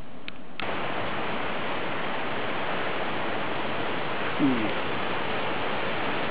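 Steady rushing of a small waterfall's falling water, starting abruptly about half a second in. A brief falling tone cuts in about two-thirds of the way through.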